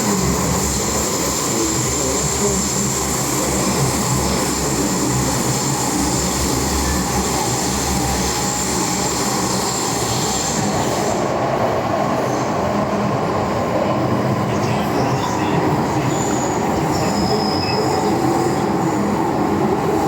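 MTR M-Train electric multiple unit running on the Island Line: steady loud rumble of wheels on rail with wheel squeal. About halfway through, a high steady whine drops away, and short high squeals come and go after it.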